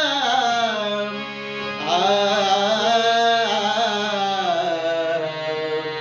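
Devotional Marathi abhang singing: a voice holding long notes that glide and bend, over a steady drone.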